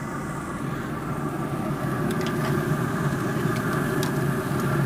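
Steady mechanical hum of a grill's blower fan running, with a few faint ticks.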